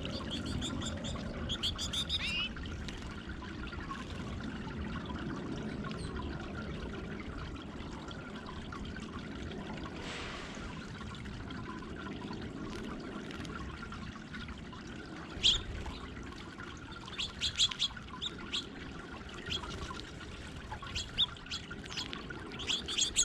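Garden water fountain trickling and pouring steadily, with small birds giving short, high chirps at the start and again, more often, over the last several seconds.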